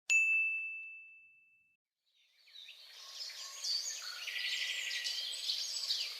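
A single bright bell ding that rings one clear tone and fades over about a second and a half. About two seconds in, a sound effect of birds chirping and twittering begins and runs on.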